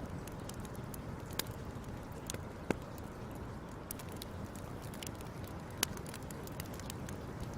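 Fire crackling: a steady low rustle of burning with irregular sharp pops, two of them louder, a third and three quarters of the way through.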